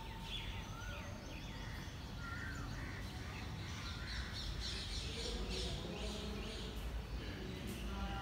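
Birds chirping and calling in short, scattered calls over a low steady rumble.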